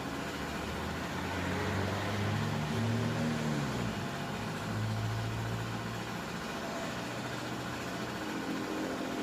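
Car engine running: its pitch rises a couple of seconds in, drops suddenly at about four seconds, then holds steady at a lower speed.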